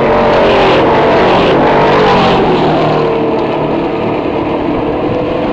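Stock car engine running loud at speed on the track, its pitch falling over the first three seconds and then holding steadier.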